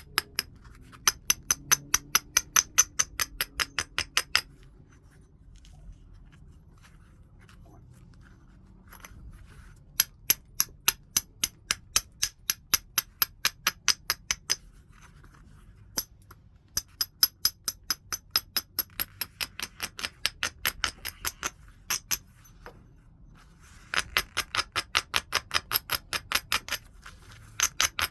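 Quick runs of light, sharp taps of a knapping hammer against the edge of a heat-treated Burlington chert preform, about four or five clicks a second, in bursts of a few seconds with short pauses between.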